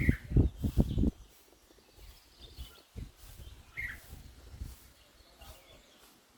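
A bird giving a few short, separate chirps, with a low rumbling noise in the first second.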